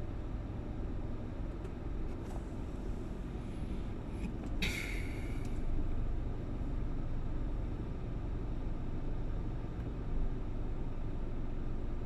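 Steady low rumble of a car driving, with a brief higher hiss or rattle about four and a half seconds in.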